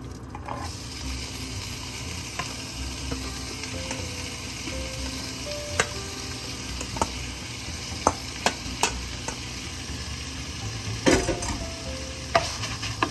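Food sizzling in a frying pan, a steady hiss, while a utensil stirs it and clicks against the pan several times, the loudest knock coming about eleven seconds in.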